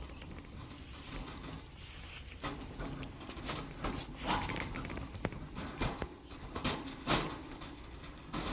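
Irregular light clicks and taps over faint rustling, a few of them sharper about four, six and a half and seven seconds in.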